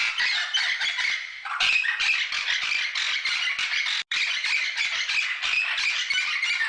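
Many birds squawking and chattering together in a dense, unbroken din, with a split-second gap about four seconds in.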